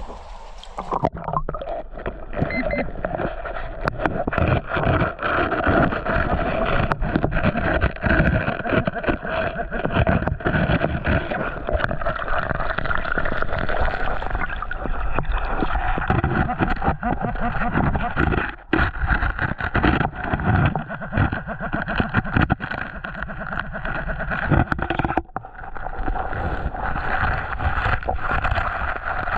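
Water sloshing and churning close to the microphone, a dense irregular crackle that starts suddenly about half a second in, with a brief drop near the middle and another near the end.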